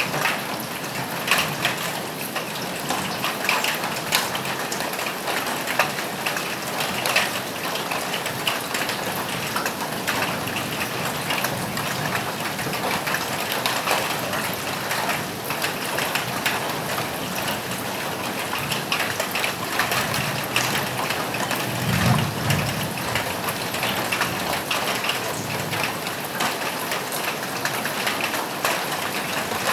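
Steady rain falling on a roof, an even hiss with many separate drops ticking and splashing. A brief low rumble comes about two-thirds of the way through.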